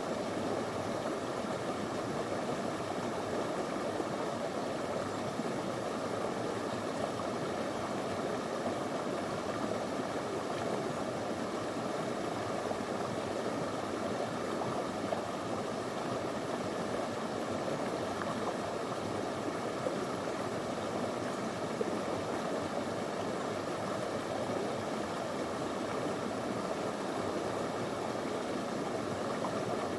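Small river flowing over stones, a steady even rush of water.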